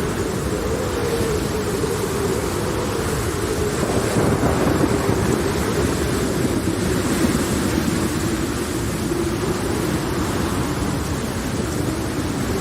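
Thunderstorm ambience: steady rain noise under a wavering low drone, swelling into a rumble of thunder about four seconds in.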